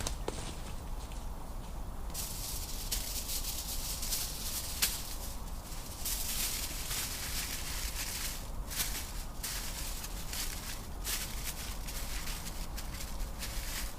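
Rustling, hissing noise that comes and goes in stretches of a few seconds over a steady low rumble, with a few faint clicks.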